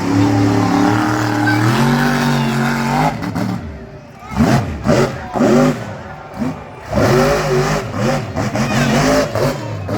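Monster truck engine running at a held speed, then blipped hard several times in quick succession about four seconds in, before settling back to a steadier run.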